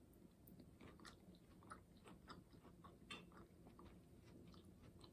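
Faint chewing of food, with soft irregular crunches and mouth clicks.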